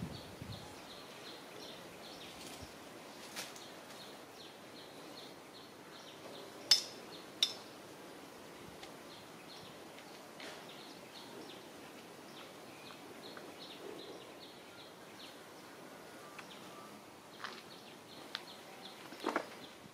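Outdoor ambience with a small bird chirping over and over in short high notes, about three a second. Two sharp clicks come about seven seconds in, and a few more near the end.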